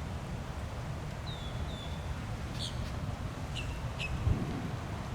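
Bird calls over a steady low rumble: two short falling whistles, then four sharp chirps. A single low thump comes about four seconds in.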